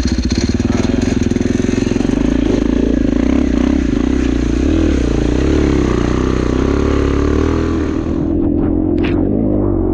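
KTM dirt bike engine pulling away from low revs, its separate firing pulses merging into a steady running note that rises and falls in pitch as it rides on.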